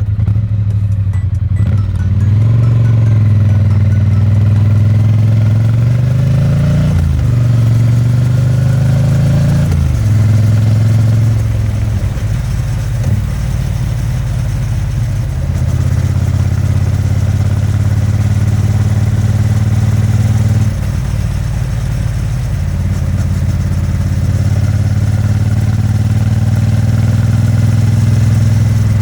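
Triumph Bonneville T100's vertical-twin engine and exhaust under way. Its pitch climbs and drops back three times in the first half, shifting up through the gears, then holds steady at cruise.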